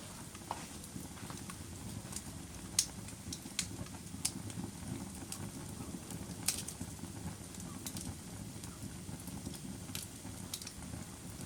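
Fire burning in a fireplace: a steady low rumble with scattered sharp crackles and pops, several of them spread irregularly through the stretch.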